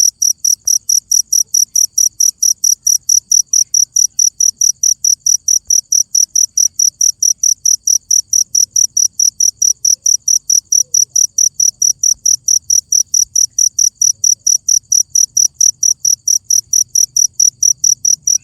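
Cricket chirping in a steady, even rhythm of about four high-pitched chirps a second.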